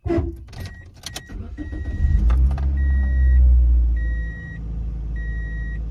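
A car engine is started: after a few clicks the engine cranks and catches about two seconds in, revs briefly and settles to a steady idle near the end. A dashboard warning chime beeps over it at regular intervals of about a second and a half.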